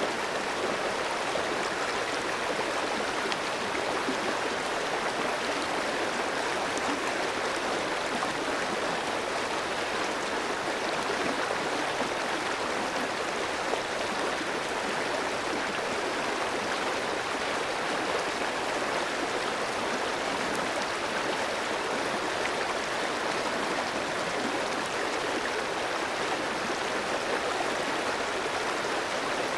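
Clear stream running over rocks: a steady, even rush of flowing water.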